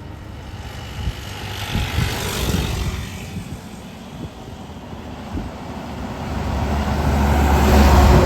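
Road vehicles passing, with a heavy engine rumble that grows louder near the end as a large vehicle comes close.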